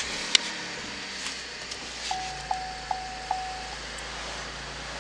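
Holden VF Commodore's 3.6-litre LFX V6 idling just after starting, heard from inside the cabin, with a sharp click just after the start. About two seconds in, the dashboard warning chime sounds four times in a row, warning that the boot lid is open.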